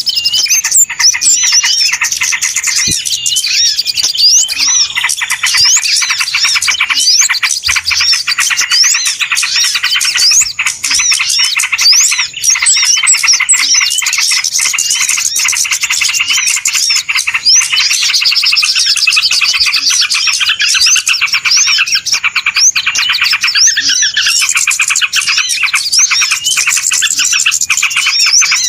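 Noisy chorus of many small birds chirping and twittering at once, rapid high calls overlapping without a break: a bird-luring (pikat) call recording meant to draw small birds in.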